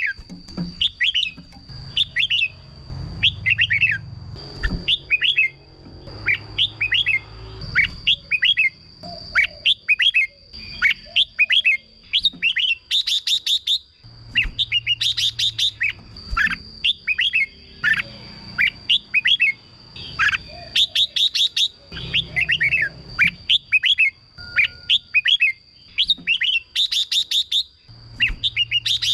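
Red-whiskered bulbul singing: short, quick whistled phrases of sweeping notes, repeated over and over with a few fast trills, over a steady high tone.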